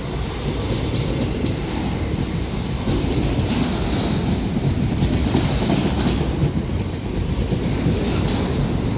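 Freight train wagons rolling past: a steady noise of steel wheels running on the rails.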